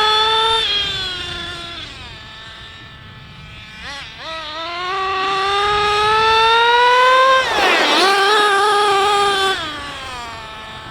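Nitro-fuelled RC car's small engine revving high, easing off about two seconds in, then climbing steadily to a high pitch. The pitch dips sharply once near eight seconds, holds high, and falls away near the end.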